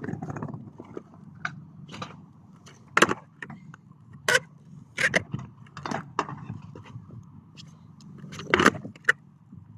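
Skateboard freestyle tricks: a string of sharp clacks as the board's tail, deck and wheels hit the concrete, the loudest about three seconds in and near the end, over a steady low rumble.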